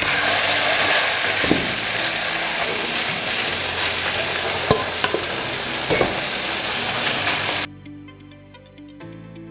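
Green-chutney-marinated chicken breast sizzling as it pan-fries in oil in a nonstick frying pan, with a few clicks. The sizzle cuts off suddenly near the end, leaving quiet background music.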